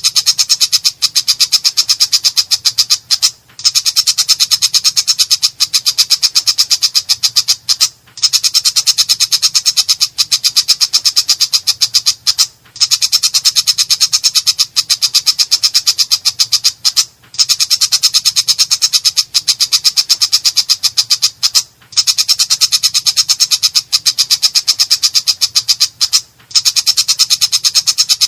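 Long-tailed shrike (cendet) singing a harsh, rough chatter of rapid, rasping notes in long runs, broken by brief pauses every four to five seconds.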